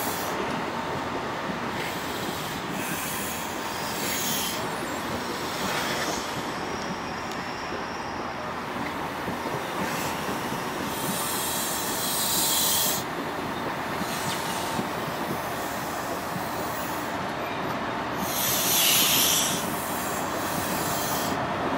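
The coaches of a Great Western High Speed Train rolling slowly past along the platform: a steady rumble of wheels on rail. There are two louder, high-pitched hissing bursts, about 11 and 18 seconds in.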